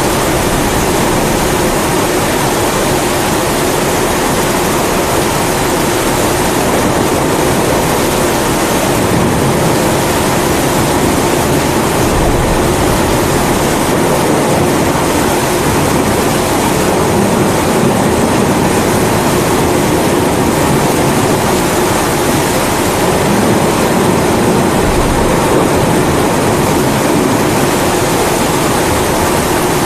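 Kerosene pressure stove (primus) burner running with a steady roar, mixed with the even hiss of rain.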